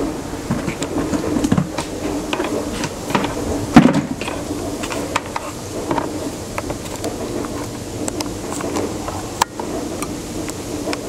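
Volvo S70 suspension ticking and clicking irregularly as the car body is bounced, with a louder knock about four seconds in. The owner wonders whether worn strut mounts are the cause.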